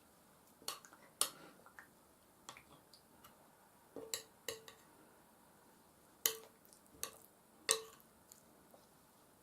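Metal cutlery clinking against a plate or bowl of food, about seven sharp clinks spread out, several with a brief ring.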